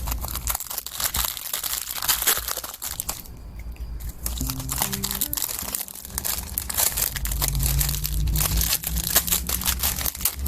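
Packaging crinkling and crackling as it is handled and opened, in quick clustered crackles that pause briefly about three seconds in, over soft background music.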